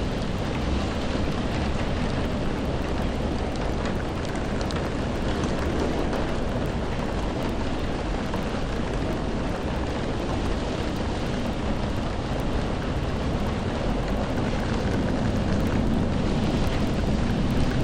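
Steady rain ambience: an even, continuous wash of rain noise with a deep rush underneath, growing slightly louder towards the end.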